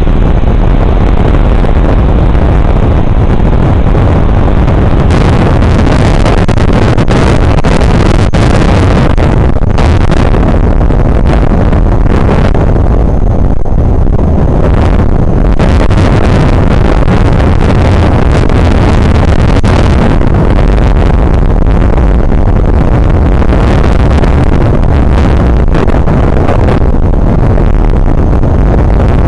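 Very strong wind buffeting an outdoor nest camera's microphone: a loud, continuous rush of wind noise, heaviest in the low end, swelling and easing with the gusts.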